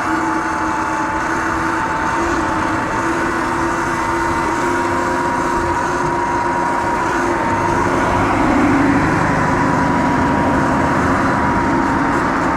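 Sur-Ron Light Bee electric dirt bike running on the road: a steady motor whine over wind and tyre noise. The whine creeps slightly higher in pitch, and the sound swells a little about eight seconds in.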